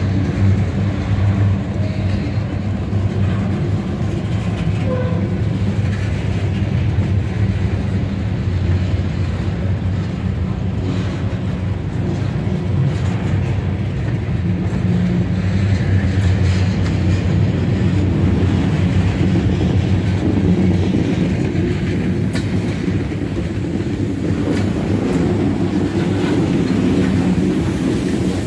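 Freight train of covered hoppers and boxcars rolling past at close range: a steady, loud rumble of steel wheels on the rails with scattered clicks.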